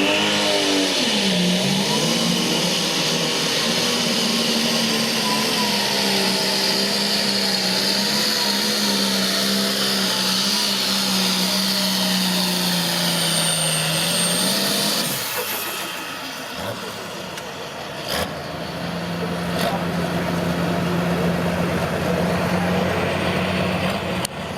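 Super stock pulling tractor's diesel engine running hard at high revs, with a high whine above it. About fifteen seconds in the engine drops off, then it settles into a lower, steady run.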